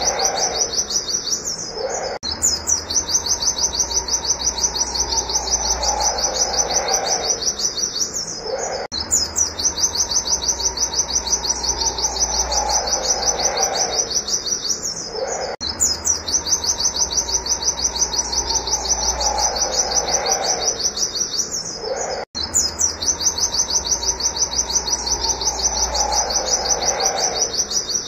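White-eye (pleci) singing its 'wit wit' shooting song: a fast, unbroken run of high repeated notes, several per second, in long phrases with a brief pause about every six to seven seconds.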